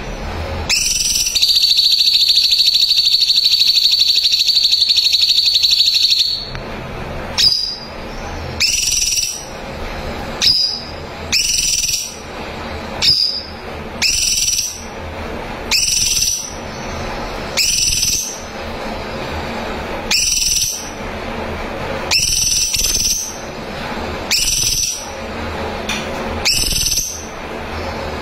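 Cucak cungkok calling loudly: a fast rattling trill of about five seconds, then a string of short upward-sweeping whistled notes, one every one to two seconds.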